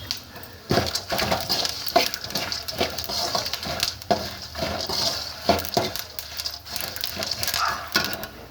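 A spatula stirring and scraping in a pan of frying tempering (peanuts, roasted gram and spices in a little oil): many quick clatters and scrapes against the pan over a light sizzle. The stirring starts just under a second in and keeps going throughout.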